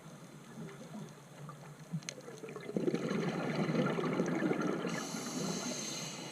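Scuba regulator breathing underwater: a burst of exhaled bubbles gurgles up about three seconds in, and the hiss of an inhale through the regulator comes near the end.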